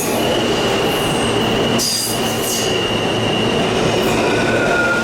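R160A New York subway train running on the rails: steady wheel and running noise with a high, steady squeal that drops to a lower tone near the end.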